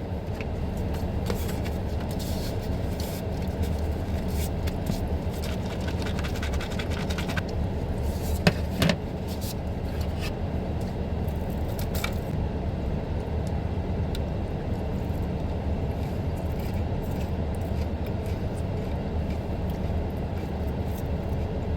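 A steady low engine hum, like a vehicle idling, with a few light clicks and scrapes about eight and twelve seconds in, typical of plastic takeout lids and containers being handled.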